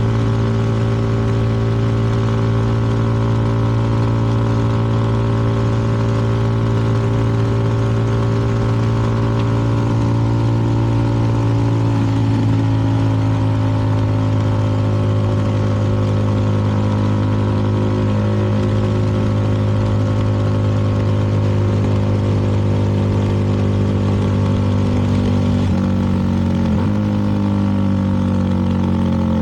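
CFMoto 300NK's single-cylinder engine running at a steady cruise under the wind and road noise of riding. Its pitch slowly sinks through the second half and drops sharply a couple of times near the end.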